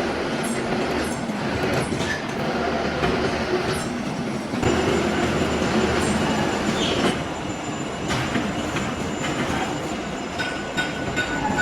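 Metal lathe running with a steady mechanical din. About halfway in it gets louder and a thin high whine joins, and another steady tone comes in near the end.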